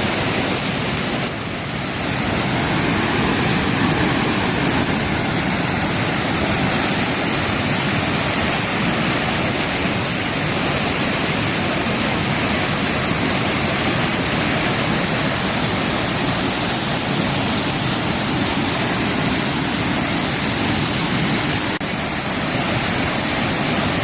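Waterfall rushing close to the microphone: a loud, steady wash of falling water, the falls running powerfully after heavy rain.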